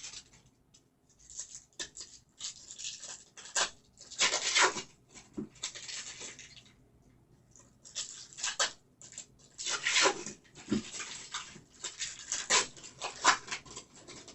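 Foil trading-card pack wrappers being torn open and the cards handled: irregular bursts of crinkling and rustling with sharp clicks between them.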